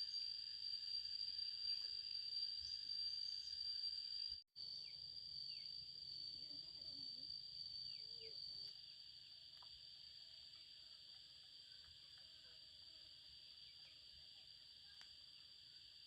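Steady, high-pitched insect chorus of crickets or cicadas, with faint scattered small sounds beneath it. It cuts out for an instant about four seconds in and goes quieter about halfway through.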